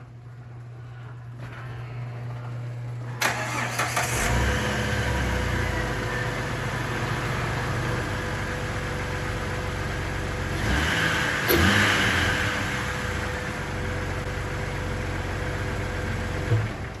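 2006 Jeep TJ's engine starting about three to four seconds in, then running, with a louder stretch about two thirds of the way through. It is shut off shortly before the end.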